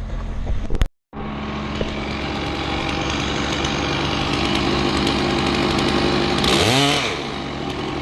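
Chainsaw running steadily under load, cutting wood; near the end its pitch rises and falls once in a brief rev.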